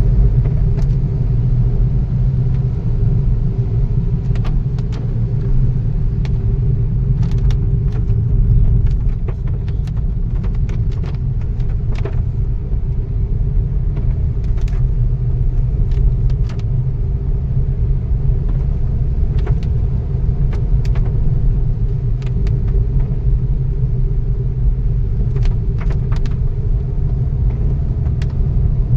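A motor vehicle driving, heard as a steady low rumble of engine and road, with scattered short clicks and knocks over it.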